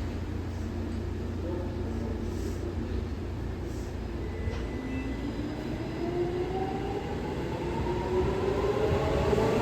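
Seibu 2000 series electric train running with a steady low rumble, then its traction motors whine in several tones rising together in pitch from about halfway, as the train accelerates and grows louder.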